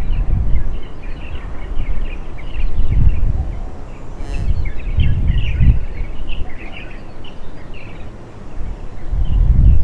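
Gusts of wind buffeting the microphone in uneven swells, with small birds chirping over it throughout.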